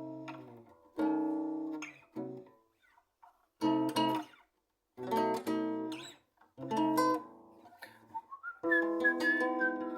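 Acoustic guitar played in single strummed chords, each left to ring and die away, with a short pause in the middle. Near the end a high wavering tone sounds over the chords.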